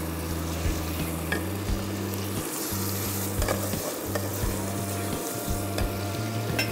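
Beef chunks sizzling as they fry in hot oil and spice paste in a pot, stirred with a wooden spatula, with scattered light scrapes and knocks of the spatula against the pot. This is the searing stage, with the meat just added to the cooked-down spices.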